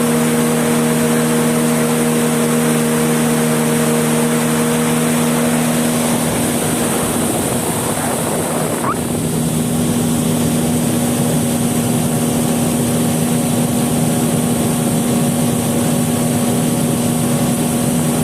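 Motorboat engine running steadily, with water wash. Its tone shifts briefly about six to nine seconds in, then settles again.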